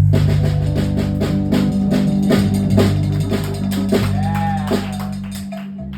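Live rock band playing, with electric guitar, bass and drum kit: held bass notes under steady drum strokes, and a sliding note about four seconds in.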